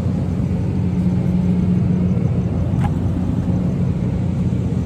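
Steady low rumble with a constant hum, like an engine running at a steady speed.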